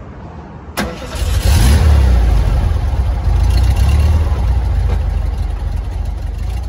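Air-cooled Volkswagen Beetle flat-four engine starting about a second in, then running with a loud low rumble.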